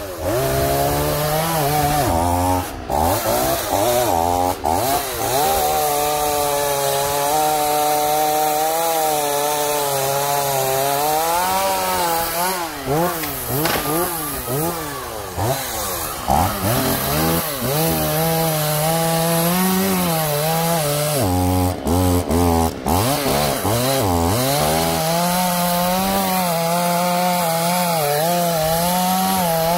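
Two-stroke chainsaw cutting a tree, its engine revving up and down under load, dropping briefly to idle about two-thirds of the way through before revving again.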